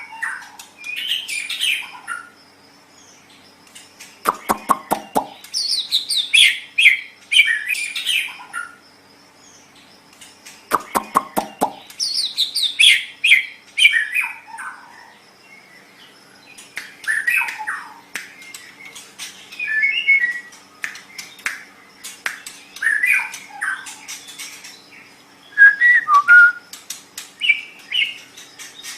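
White-rumped shama (murai batu) singing in varied, fast whistled phrases separated by short pauses, twice breaking into a rapid harsh rattle of clicks, about four and eleven seconds in.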